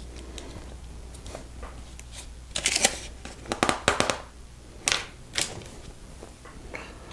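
Plastic LEGO bricks clicking and rattling as they are handled and pressed together, in a few quick clusters of sharp clicks from about two and a half seconds in, over a low steady hum.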